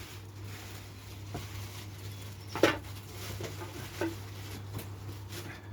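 A few light, scattered knocks and taps from handling the unboxed power rack parts and packaging, the sharpest about two and a half seconds in, over a steady low hum.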